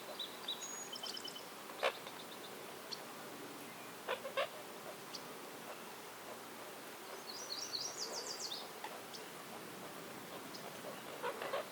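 Songbirds giving short, high chirps and quick trills, one bout near the start and another around the middle, over a steady outdoor hiss. A few short, sharp clicks or knocks stand out, one about two seconds in, a pair around four seconds and one near the end.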